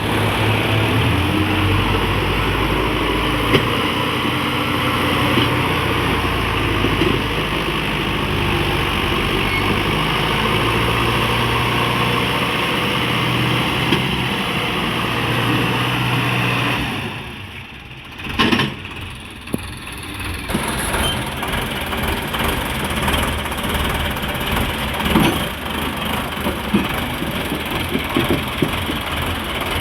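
Tractor diesel engine running steadily. About 17 seconds in the sound drops away for a few seconds, with one sharp knock, then the engine is heard again.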